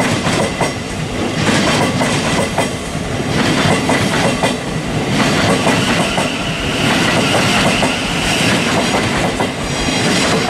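Electric multiple-unit trains moving close by, a Thameslink Class 700 and a Southern Class 377, their wheels clattering over rail joints. A steady high whine joins the noise about halfway through.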